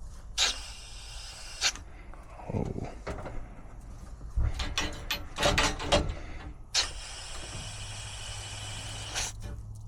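Natural gas hissing out of a loosened fitting on a furnace's gas line, bled to check that gas is reaching the unit, in two spells. Between them come knocks and clatter of tools or metal, and a steady low hum comes in near the end.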